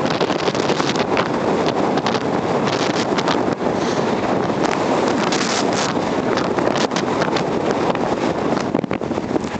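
Blizzard wind blowing hard and buffeting the microphone: a steady loud rush with many brief crackles and gusts scattered through it.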